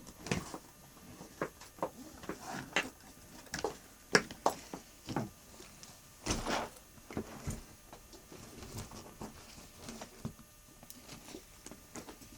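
Irregular knocks, clicks and rustles of things being moved or handled, with a sharper knock about four seconds in and a longer rustle about six seconds in.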